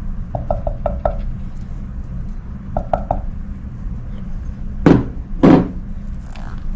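Light tapping and knocking of a utensil against a mixing bowl while buttercream is mixed, with two louder knocks about five seconds in, over a steady low hum.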